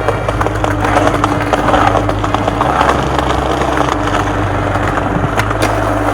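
Skateboard wheels rolling on pavement, with a couple of sharp clacks of the board near the end, under a music track with a stepping bass line.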